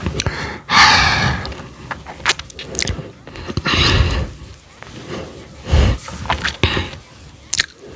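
Close-miked eating sounds: chewing with wet mouth clicks and smacks, and several louder noisy swells about a second in, around four seconds and near six seconds.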